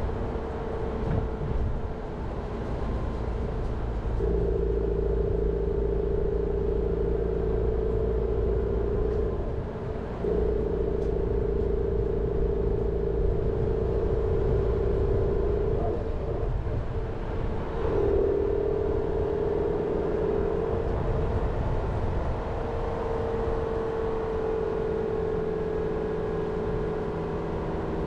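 Jeep Renegade driving along, its engine and drivetrain giving a steady drone over a low road rumble. The drone drops away briefly about ten seconds in and again around sixteen to eighteen seconds, then returns at a slightly shifted pitch.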